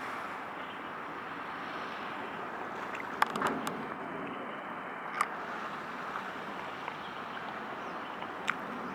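Steady rushing background noise, with a few sharp clicks about three, five and eight and a half seconds in.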